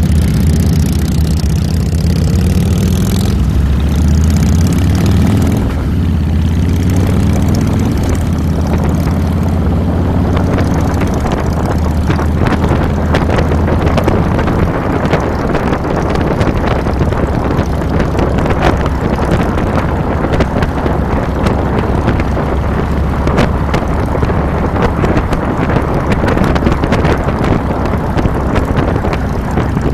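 2007 Harley-Davidson Fat Boy's Twin Cam 96 V-twin running while riding, with a brief rise in engine pitch a few seconds in. Wind and road noise on the handlebar-mounted microphone grow after about ten seconds and come to cover the engine.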